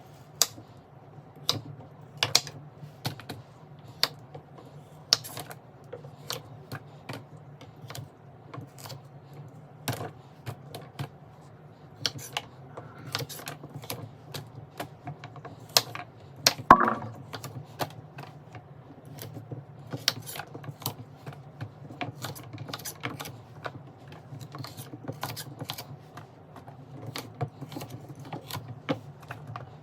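Containers and jars being handled and set down while a refrigerator is restocked: an irregular run of sharp clicks and clinks, with one louder ringing clink about seventeen seconds in, over a steady low hum.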